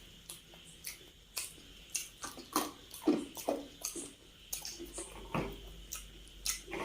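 Close-miked wet chewing and mouth smacking of someone eating a curry meal, in irregular clicks and squelches, loudest about three seconds in.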